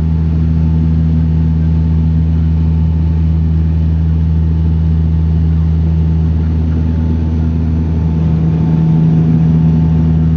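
Bombardier Dash 8 turboprop at takeoff power: the propellers and engines make a loud, steady low drone with several held tones, growing a little louder near the end.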